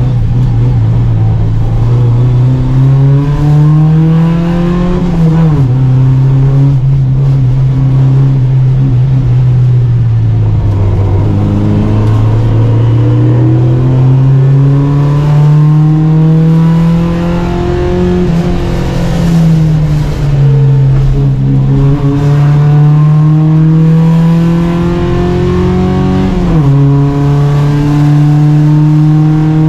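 Volvo Amazon 121 race car's engine at full throttle, the revs climbing steadily for several seconds at a time. The pitch drops sharply at gear changes about five seconds in and near the end, and sags twice in between as the car lifts off and pulls again.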